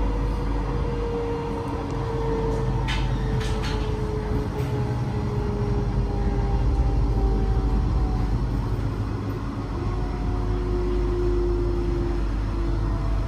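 Electric train running with a low rumble and a whine that slowly falls in pitch. A few sharp clicks come about three to four and a half seconds in.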